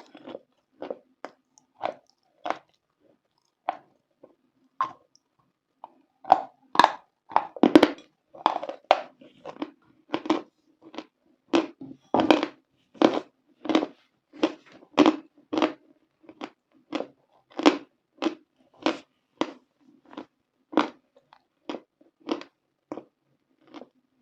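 A person chewing something dry and crunchy close to the microphone: a steady run of short crunches, roughly one every half to two-thirds of a second, with a louder, quicker flurry of bites about a third of the way in.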